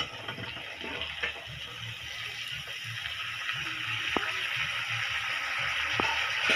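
Cauliflower and potato pieces frying in hot oil in a wok, a steady sizzle that grows louder as they are stirred in, with two light metal clicks near the end.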